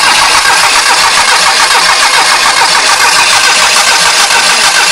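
Small four-cylinder car engine cranking on its starter motor, loud and steady, without catching. The fuel line is disconnected and the carburettor bowl has been purged with water, so there is no petrol to fire on.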